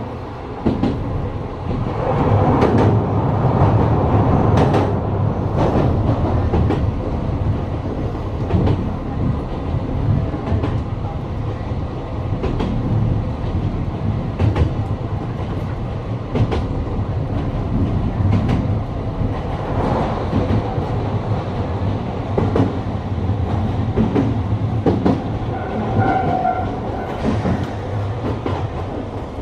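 Electric train running along the line, heard from inside the front car: a steady low rumble of wheels on rail, with irregular clicks as the wheels pass over rail joints.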